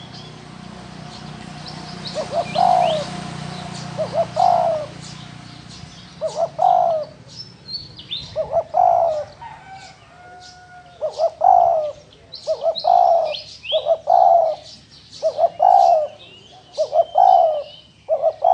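Spotted dove cooing: a low coo phrase repeated about every second and a half to two seconds, starting about two seconds in. High, short chirps of small birds sound between the coos.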